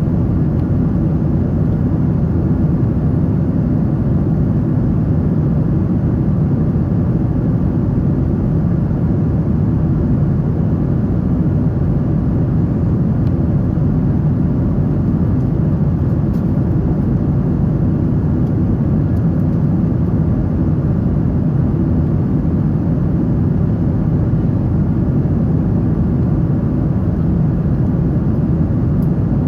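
Steady cabin noise inside a Boeing 777-300: an even, unchanging rumble of engines and airflow.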